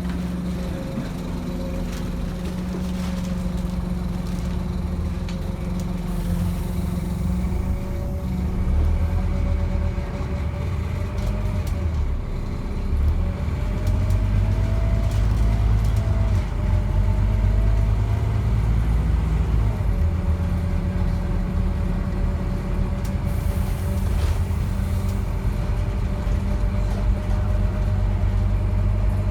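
Scania N230UD bus's diesel engine running on the move, heard on board, with a whine that rises and falls in pitch partway through as the bus pulls and changes speed. Two short hisses of air come about a quarter of the way in and again near the end.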